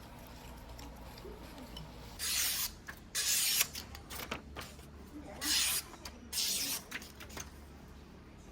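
Whetstone sharpening work on a deba knife: four short hissing, scraping strokes of about half a second each, in two pairs, with small clicks between.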